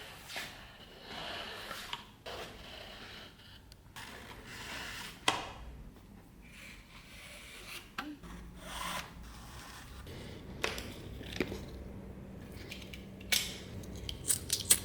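Hand work on a workpiece: irregular scraping and rubbing broken by sharp clicks and taps, the loudest about five seconds in and near the end, with a faint steady hum joining from about eight seconds in.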